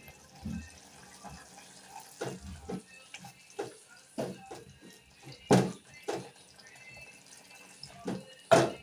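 Liquid splashing and dripping into a cooking pot, with irregular clinks and knocks throughout; two louder knocks come a little after halfway and near the end.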